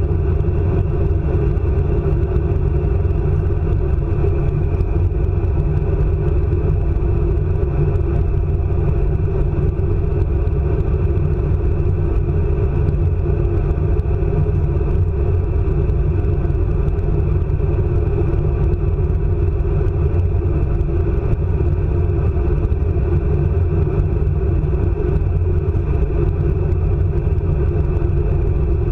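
ICE high-speed train running at speed: a steady, unbroken low rumble.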